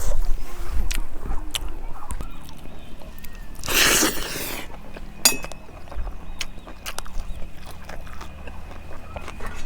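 Close-up eating sounds: chewing with scattered small clicks, and a short loud noisy rush about four seconds in.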